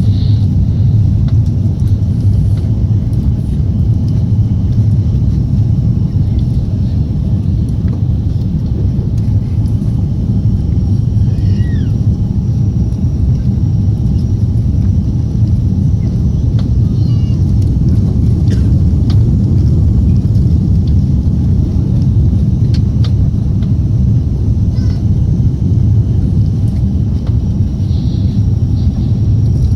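Airbus A340-300's four CFM56 jet engines running with a steady low rumble and a faint high whine above it, with a few faint short chirps.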